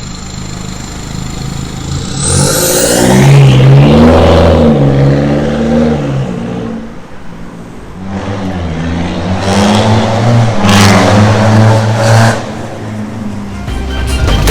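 BMW F30 320d's four-cylinder turbodiesel sounding through a full stainless-steel exhaust with a custom downpipe, rising in revs twice: once about two seconds in and again about eight seconds in, then dropping back near the end.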